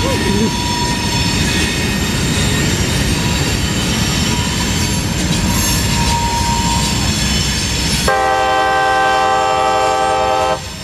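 CSX freight locomotives rumbling past, with a thin wheel squeal rising above the train noise now and then as it takes the curve. About eight seconds in, the locomotive horn sounds one long blast, a chord of several tones held for about two and a half seconds.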